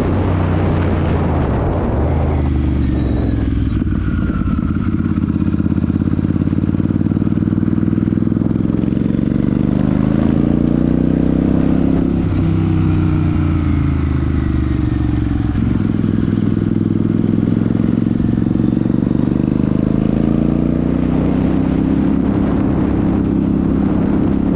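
Royal Enfield Super Meteor 650's parallel-twin engine and exhaust under way, the revs climbing and dropping several times, with sudden drops in pitch as it changes gear.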